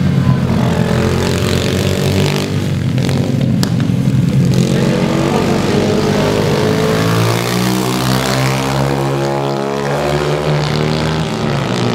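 Small single-cylinder pit bike engine running, its pitch climbing in the second half as it revs up.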